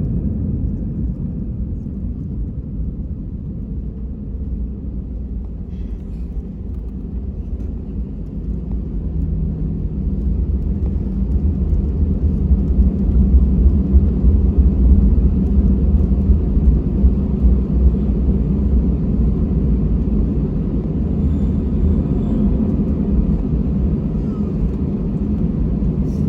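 Airbus A320 cabin noise on the ground just after landing: a steady low rumble of engines and airframe that swells louder about ten seconds in, then eases slightly.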